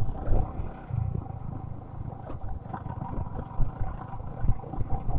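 Wind buffeting the microphone in gusts, with the Yamaha R15 V3's single-cylinder engine running steadily underneath as the motorcycle is ridden.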